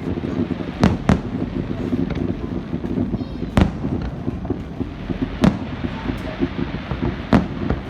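Fireworks shells bursting: five sharp bangs, two close together about a second in, then single ones roughly every two seconds, over a steady low rumble.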